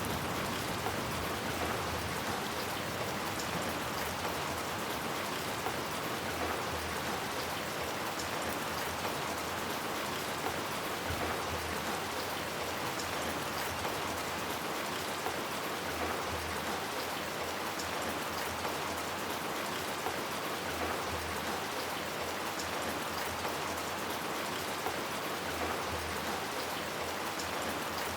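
Steady rain falling on hard surfaces, an even patter of drops with no pauses.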